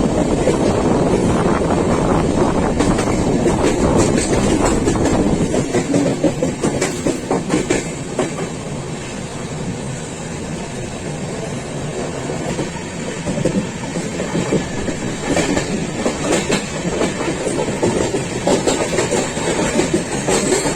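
Passenger train running along the track, its wheels clicking over the rail joints above a steady rumble. The rumble drops and thins for several seconds near the middle, then builds back up.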